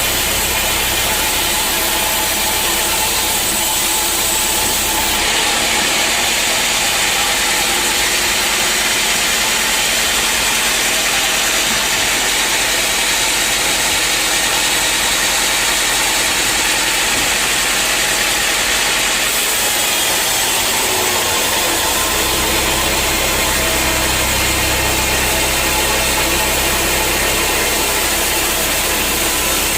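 Sawmill machinery running steadily, engine-driven, with a hissing upper edge that grows brighter from about five seconds in until nearly twenty seconds, then drops back.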